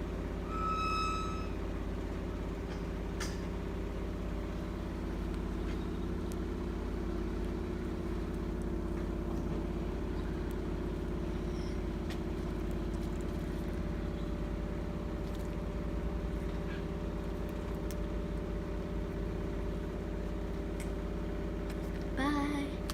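A steady low mechanical hum, like a motor or an engine running. A short high tone sounds about a second in.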